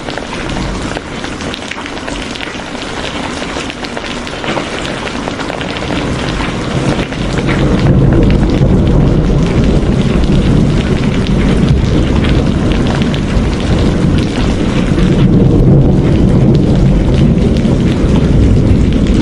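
Steady rain pattering, with a deep rumble that swells up about seven seconds in and keeps on under the rain.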